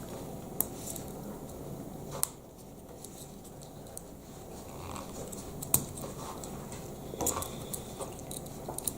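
Plastic Lego Technic pieces being handled and fitted together: a few sharp clicks and small taps, more of them near the end.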